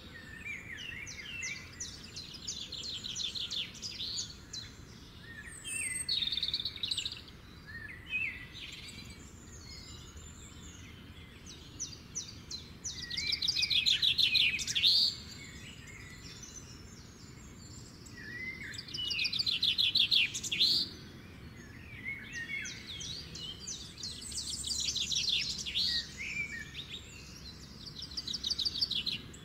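Birds singing: bursts of rapid high trills and chirps every few seconds, loudest about halfway through and again about two-thirds of the way in.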